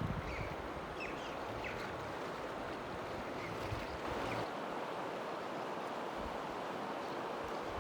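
Steady rushing of flowing river water, with wind buffeting the microphone for the first four seconds or so before it dies down.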